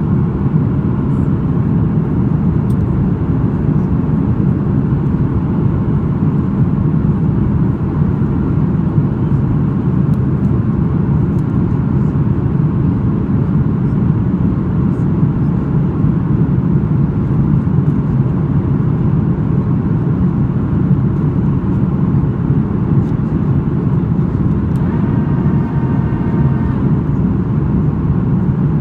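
Steady rumble of a Boeing 737-800's engines and the airflow around the airliner as heard inside the cabin during the approach, even in level throughout. A brief, faint higher tone sounds over it near the end.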